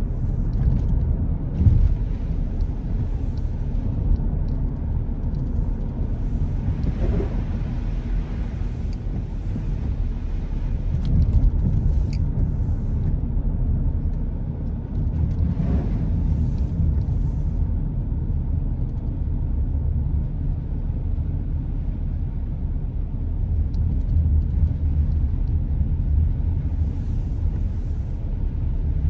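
A car driving on the road: steady low rumble of engine and tyre noise, with a fainter hiss that swells briefly a couple of times.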